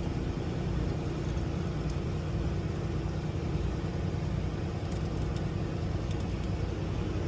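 Semi-truck engine and road noise heard from inside the cab while driving: a steady low rumble with a faint steady hum.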